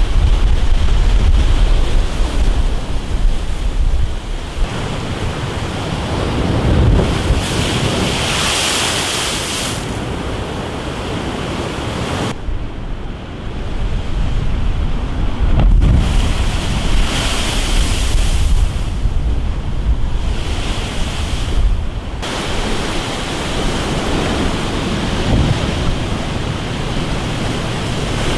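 Stormy sea: heavy waves surging and breaking, with wind buffeting the microphone. A strong low rumble at the start, and louder hissing crashes of water about eight seconds in and again around seventeen seconds; the sound shifts abruptly twice in between.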